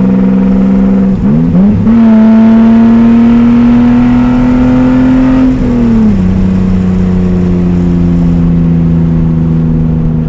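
BMW E36 exhaust, a straight pipe with an RR Performance muffler, heard from inside the cabin with the windows down. The engine drones loudly under throttle with a brief dip and wobble in pitch about a second in, then pulls with a slowly rising note. A little past halfway the pitch drops and it holds a lower, steady drone.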